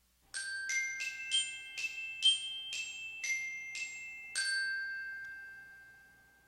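A short closing jingle of about nine struck, bell-like mallet notes in quick succession. The last note rings on and fades away.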